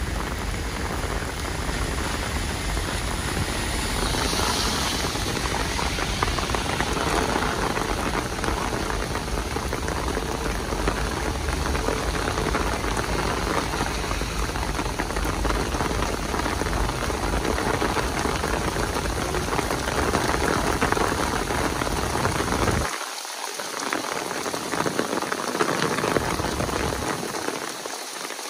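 Heavy downpour of rain falling steadily and densely on nearby surfaces. A low rumble underneath cuts out suddenly about three-quarters of the way through, leaving the rain alone.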